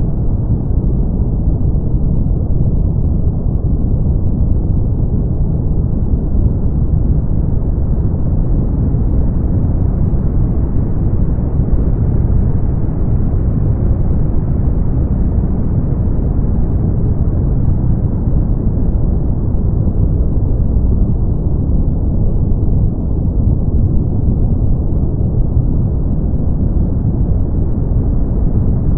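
Steady brown noise: a deep, even rumble of hiss with most of its weight in the low end and nothing above the upper midrange, unchanging throughout.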